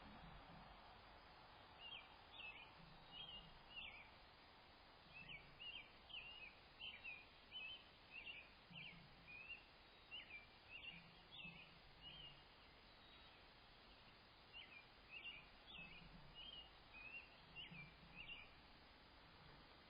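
Faint bird calls: short, high chirps in quick series, coming in clusters through most of the stretch with a pause near the middle, over a steady outdoor hiss.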